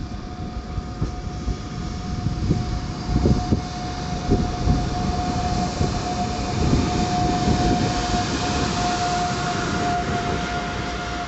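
Passenger train rolling slowly past along the platform: a PKP Intercity Siemens Taurus electric locomotive followed by its coaches, with wheels rumbling and knocking over the rail joints. A steady high-pitched squeal runs under it, and a second, higher tone joins in about nine seconds in.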